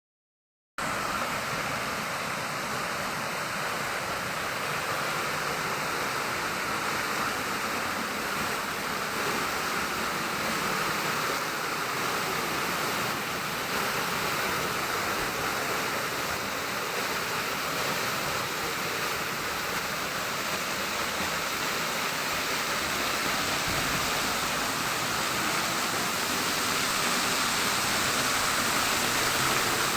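Steady rushing water. It starts abruptly just under a second in.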